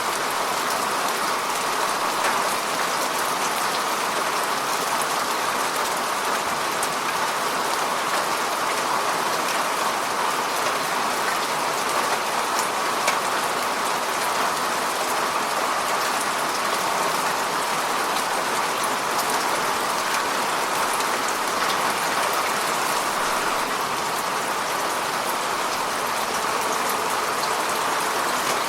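Heavy rain falling steadily, an even hiss with scattered drop ticks and no letup.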